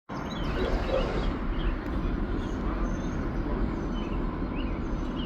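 Airbus A220's Pratt & Whitney geared turbofan engines as the jet arrives: a steady, even rumble, with a few short chirps above it.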